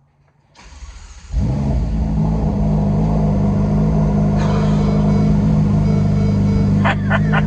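Ferrari F8's twin-turbo V8 being started: the starter spins it briefly, the engine catches about a second and a half in with a sudden jump in loudness, then settles into a steady, loud cold-start idle.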